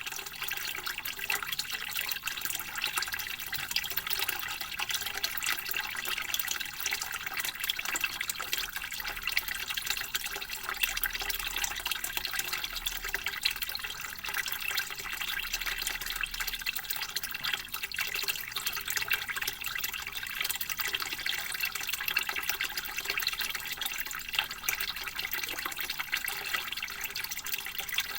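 A steady stream of water running from a bamboo spout and splashing, with no let-up.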